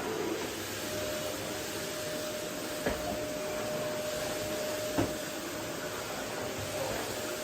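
Vacuum cleaner running steadily on a wooden floor, with a thin steady whine that comes in about a second in. Two short knocks sound near the middle.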